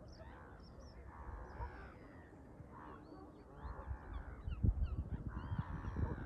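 A series of harsh calls from large birds, each lasting under a second, with short high chirps from smaller birds above them. Wind rumbles on the microphone in the second half, getting louder.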